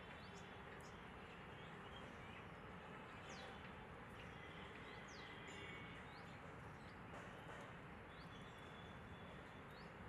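Faint, scattered short high chirps of small birds over a steady outdoor background hiss.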